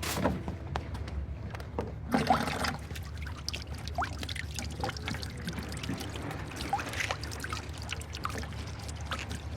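Steady trickling, sloshing water, with two louder knocks near the start and a scattering of small clicks.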